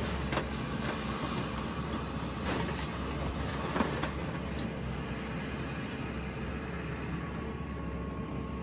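Demolition machine running with a steady low rumble while debris crashes and clatters several times in the first half as a building is torn down; it calms to a steady rumble after about five seconds.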